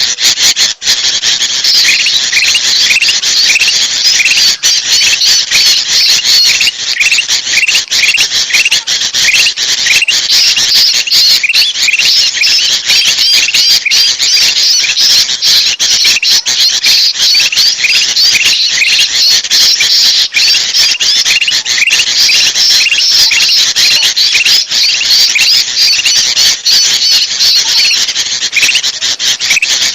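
Noisy, continuous chorus of sooty-headed bulbuls and black-capped bulbuls chattering and calling, a bird-lure recording. Short falling notes repeat two or three times a second over a dense chatter.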